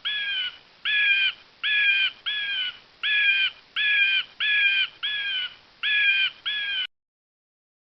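An animal calling in a series of about ten evenly spaced, pitched calls, each about half a second long, stopping about seven seconds in.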